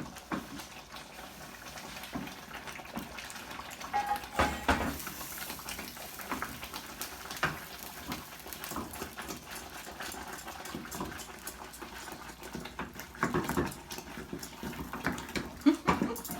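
Spoon scooping meal into a pot of boiling water and stirring it for akume: scattered knocks and scrapes against the pot, with a brief high whine about four seconds in.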